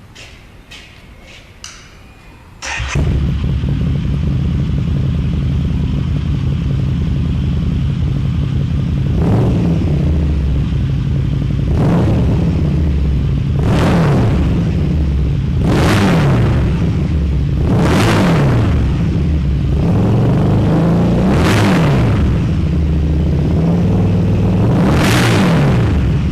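Harley-Davidson V-Rod/Night Rod V-twin engine breathing through dual 6-inch cannon mufflers: after a few faint clicks it starts about three seconds in and settles into a deep idle. It is then blipped about seven times, each rev rising and falling back quickly to idle.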